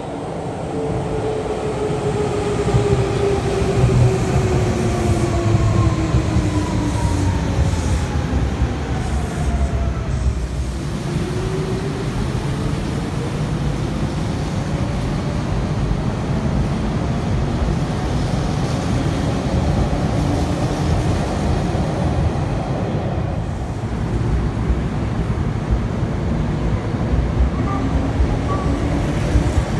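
Electric commuter trains running past a station platform: a steady rumble of wheels on rail with a motor whine that falls in pitch over the first ten seconds as a train slows, then rises again as a train accelerates away.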